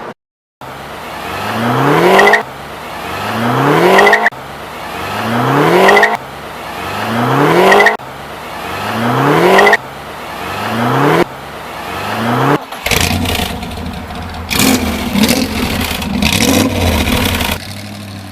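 Supercar engine revved hard about seven times in a row, the pitch climbing steeply on each blip and dropping sharply as the throttle is released. After about thirteen seconds it gives way to a rougher, steadier engine sound with some clatter.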